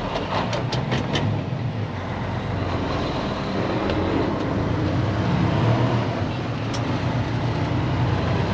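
Diesel engine of a day-cab semi truck running under load, heard inside the cab, its level building gradually. A few sharp clicks come in the first second or so.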